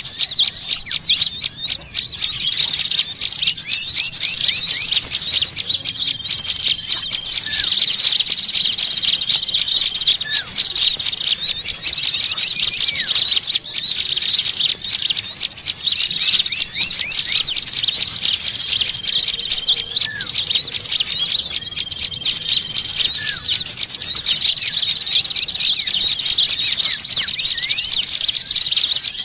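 Dense, unbroken chattering and chirping of many small songbirds, all high-pitched, with a short steady whistled note recurring every few seconds. It is a bird-lure (pikat) recording of noisy small birds.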